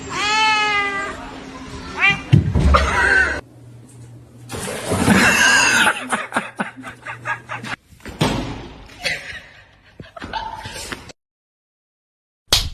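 A cat meowing, with a long drawn-out call at the start, followed by a jumble of short sounds with thumps and knocks. There is a sharp smack near the end.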